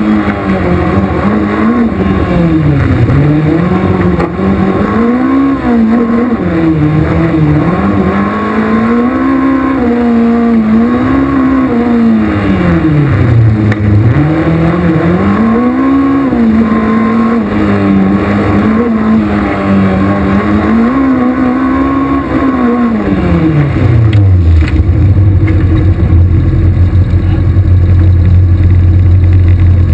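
VW Golf I 16V race car's four-cylinder engine heard inside the stripped cabin, revving hard and falling back again and again as the car is driven through a slalom course. About 24 seconds in, the revs drop and the engine settles into a steady idle.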